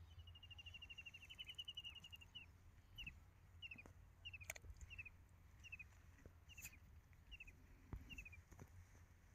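A bird calling faintly: a rapid high trill, then a string of short, high, falling chirps about one and a half a second. A few faint sharp clicks and a low steady rumble lie underneath.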